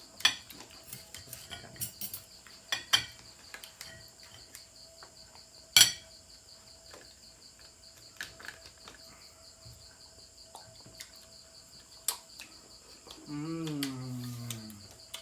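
Scattered clinks and taps of plates and utensils while people eat, the sharpest about six seconds in, over crickets chirping steadily in the background.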